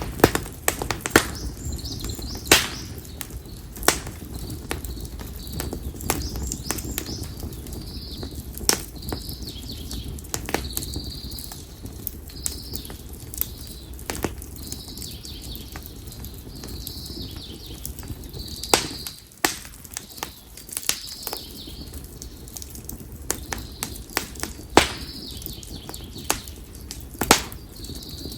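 Konara oak firewood burning in an open fire, crackling with sharp, irregular pops over a steady low rumble of flame. A bird calls repeatedly in short, high chirps every second or two.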